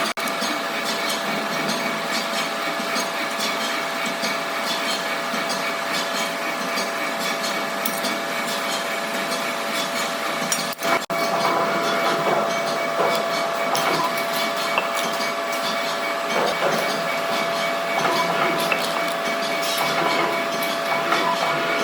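Heavy workshop machinery running steadily, with a constant whine over a rattling, clattering noise. The sound breaks off briefly about halfway through, then carries on the same.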